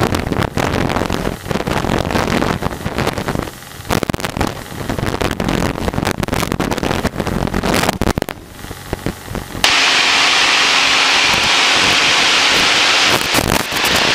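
Light airplane in flight, heard from the cockpit: rapid crackling and popping over the engine noise, which switches about nine and a half seconds in to a steady engine drone with hiss.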